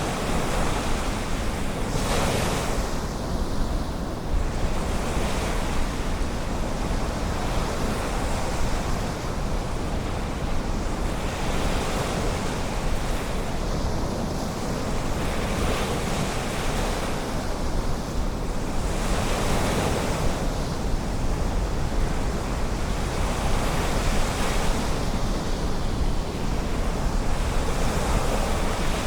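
Ocean waves washing onto a beach, the surf swelling every few seconds over a steady rush, with a low rumble of wind on the microphone.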